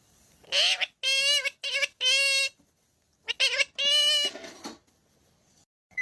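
Talking parrot vocalizing in short, high-pitched speech-like phrases, about four quick calls, a pause, then two or three more.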